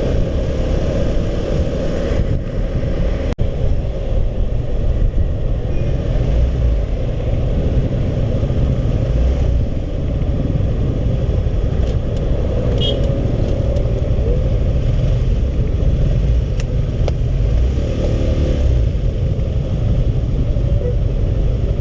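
Honda CB150R motorcycle riding along, its single-cylinder engine running steadily under a continuous low road-and-wind rumble, with a brief click about three seconds in.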